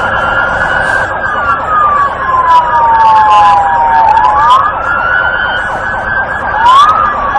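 Police car siren on wail, its pitch falling slowly for about three seconds, then sweeping quickly back up. Two slightly offset tones glide together.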